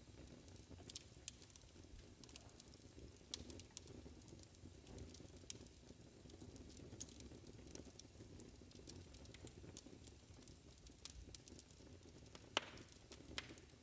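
Fireplace crackling faintly: irregular sharp pops and ticks over a low steady rumble, with one louder pop near the end.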